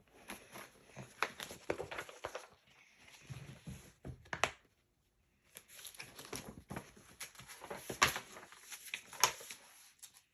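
Paper rustling and crinkling in irregular bursts with sharp crackles: the pages of a picture book being handled and turned.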